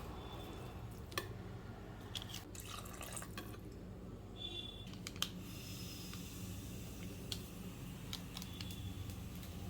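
Scattered light clicks and taps, with dripping water, over a steady low hum.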